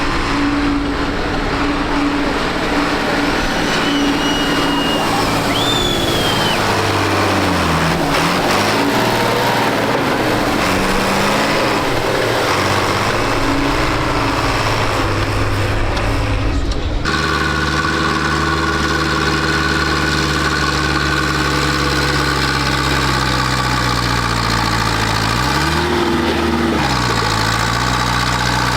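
Tractor engines running, their speed shifting up and down. After a sudden cut, one engine idles steadily, briefly revving up and dropping back near the end.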